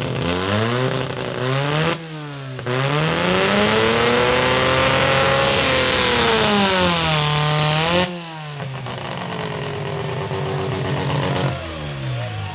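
Mazda rotary-engined hotsaw revving hard: it climbs quickly, dips briefly, then is held at high revs for about five seconds, its pitch rising and then sagging. It drops to a lower run about eight seconds in and falls further near the end.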